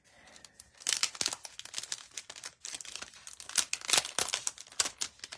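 Packaging crinkling and crackling in quick, irregular bursts as it is handled, starting about a second in.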